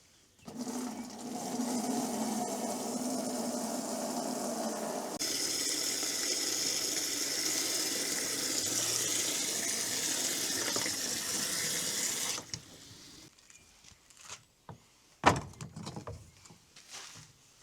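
Water running from a tap for about twelve seconds, at first with a hollow filling tone as if into a container, then a brighter, even rush before it shuts off. A single sharp knock follows near the end.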